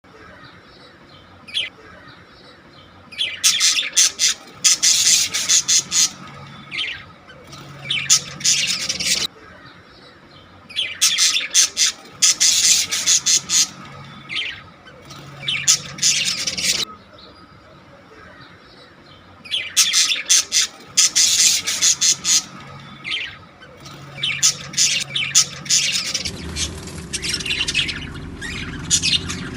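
Pet love birds (small parrots) chattering in repeated bursts of rapid, high squawks and chirps every few seconds. Near the end a low hum comes in and the chirping becomes more continuous.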